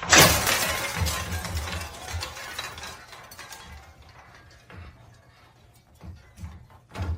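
A sudden crash at the start, followed by scattered clinks and clicks that fade away over about three seconds.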